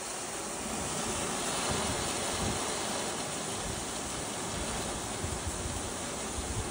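Hurricane Nicole's tropical-storm-force wind blowing in a steady rush, with a few low buffets of wind on the microphone near the end.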